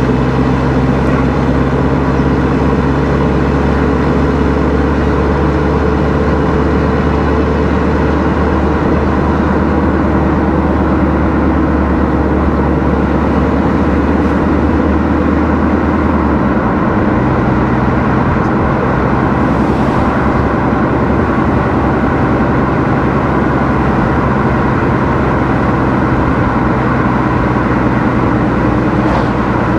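Car driving on a road: steady engine hum and road noise. The engine's low hum changes pitch about halfway through.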